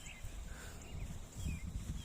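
Songbirds chirping, short gliding notes scattered through, over a low rumbling that swells about one and a half seconds in.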